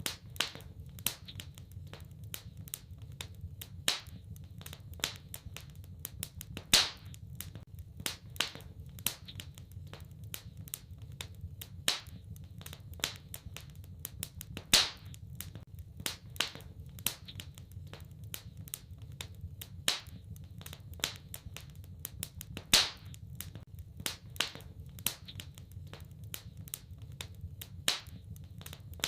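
Wood fire in a fireplace crackling: irregular sharp snaps several times a second, with a louder pop about every eight seconds, over a soft low rumble of the flames.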